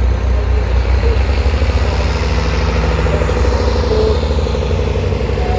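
Large tractor diesel engine running steadily, a deep throbbing rumble as it drives past.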